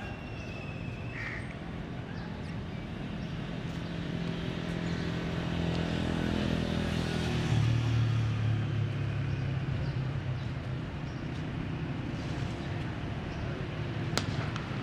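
An engine running, growing louder and dropping in pitch about halfway through, over general outdoor noise, with one sharp click near the end.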